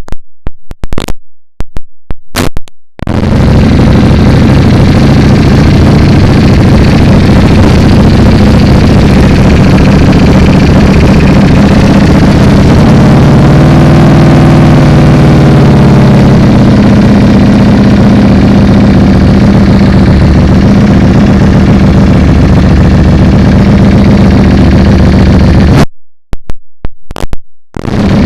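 Ducati Panigale V4 engine idling loud and steady through an Arrow titanium slip-on exhaust just after a cold start, the idle note stepping a little higher about halfway through. The sound drops out in choppy gaps in the first few seconds and again near the end.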